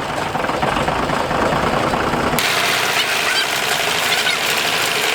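Tractor engine running steadily. About two seconds in the sound changes abruptly to a brighter, less bassy take of the engine.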